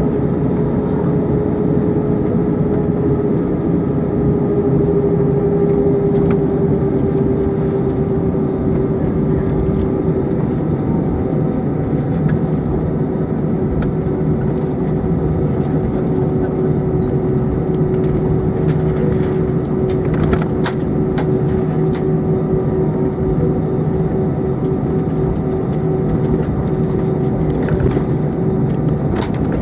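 Steady cabin noise inside an Airbus A320 on the ground before takeoff: the jet engines and air-conditioning running with an even hum and a held tone, with a few faint clicks.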